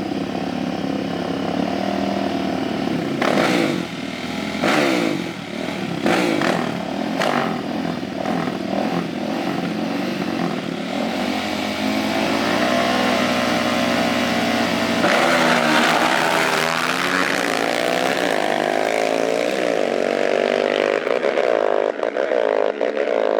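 Small off-road engines (dirt bike, four-wheeler or go-kart) running and revving, the pitch climbing and falling, with several sharp cracks a few seconds in.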